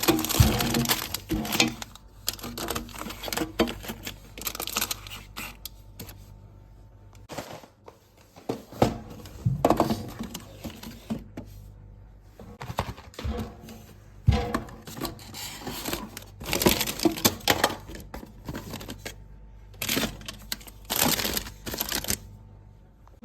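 Plastic snack and ice-cream wrappers crinkling and rustling in irregular bursts as the packages are handled, with light knocks.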